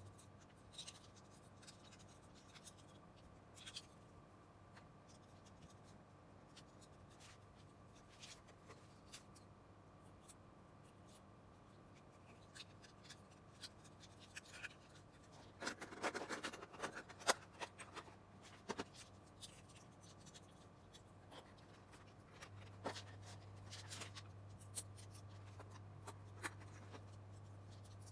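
Small plastic LEGO pieces being handled, giving faint scattered clicks and rustles, with a busier flurry of clicks a little past the middle. A faint steady low hum drops out near the start and returns later on.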